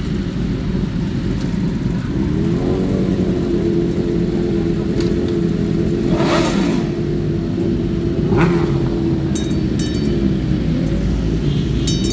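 Motorcycle engine revving up about two and a half seconds in and then running at steady high revs, easing off near the end, with a brief whoosh midway.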